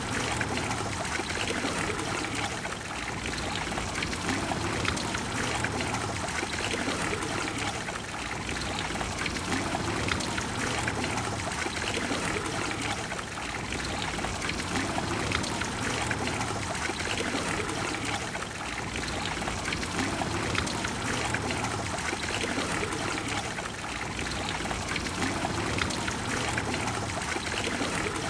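Water of the Trevi Fountain splashing and pouring steadily into its basin, a continuous even rush with no breaks.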